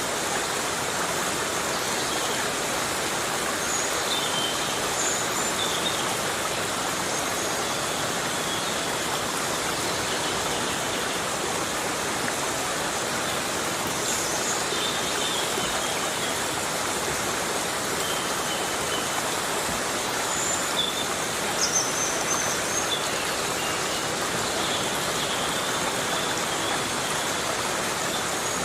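Heavy rain falling steadily on rainforest foliage, a dense even hiss, with brief high chirps here and there.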